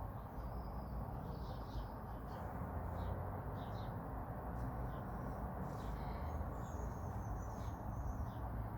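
Birds chirping faintly over a steady low background noise, with a longer high whistled call about six seconds in.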